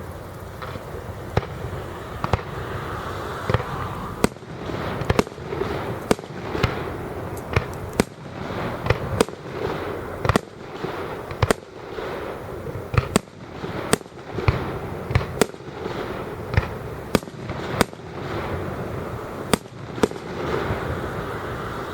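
Fireworks display: many sharp bangs from bursting shells, coming irregularly about once or twice a second, over a steady background noise. The bangs come thicker from about four seconds in.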